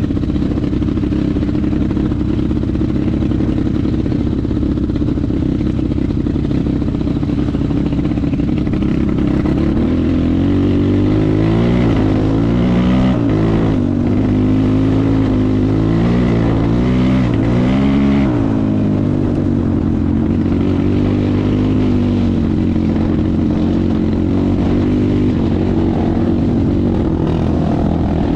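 Enduro motorcycle engine running while riding, steady at first, then rising and falling in speed several times for a stretch in the middle as the throttle is worked, before settling steady again. A higher, rising engine note comes in near the end.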